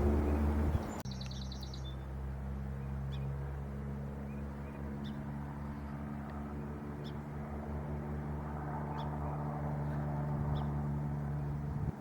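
A steady low engine hum, with a short high bird call about a second in and faint, short high chirps about every two seconds.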